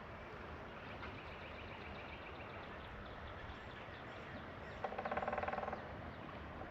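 A woodpecker drumming on wood: one rapid roll of strikes about a second long, a little under five seconds in, over steady outdoor background noise.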